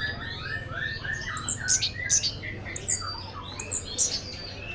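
Chestnut-capped thrush (punglor) singing a fast, varied song of short whistled notes, sharp high down-slurred notes and quick runs of notes, over a faint steady low hum.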